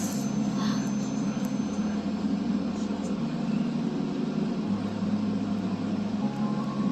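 GO Transit commuter train running, heard from inside the coach: a steady low rumble and hum.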